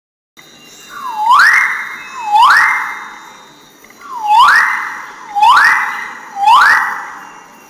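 A bird giving five loud, harsh calls. Each call sweeps sharply upward and then holds briefly before fading, with a longer pause after the second call.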